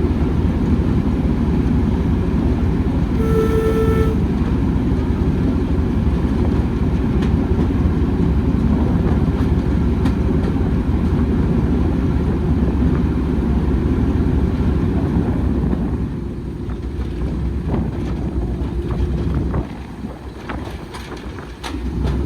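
A train running, heard as a loud, steady low rumble, with one short toot about three seconds in. The rumble eases off after about sixteen seconds.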